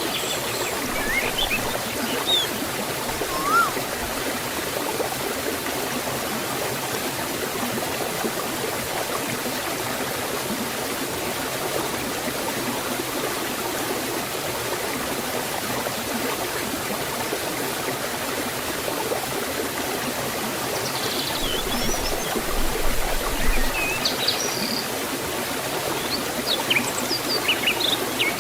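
Forest stream and small waterfall rushing and splashing steadily, with a few short bird chirps near the start and again in the last several seconds.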